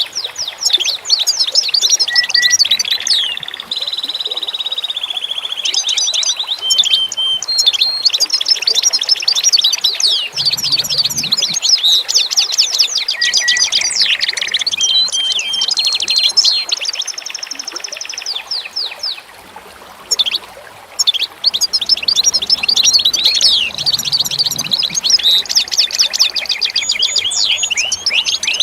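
Several songbirds singing at once: dense runs of quick high chirps and trills, with short clear whistled notes in between. The singing thins out briefly about two-thirds of the way through.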